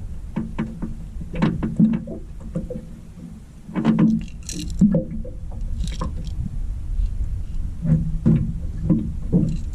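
Irregular knocks and clatters of gear being handled on a small fishing boat, over a steady low rumble of wind and water.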